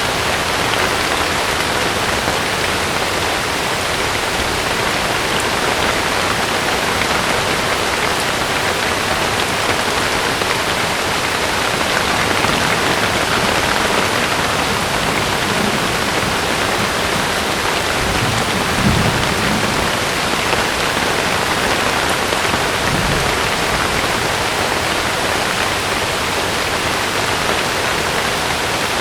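Heavy rain drumming steadily on a camping tent, a dense even patter. A few brief low thuds come about two-thirds of the way through.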